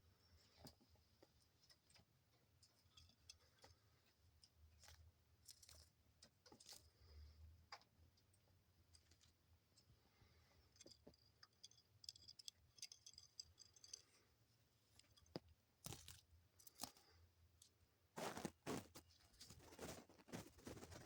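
Faint sporadic clicks and soft feather rustling from a pet dove close to the microphone, with a louder flurry of rustling near the end.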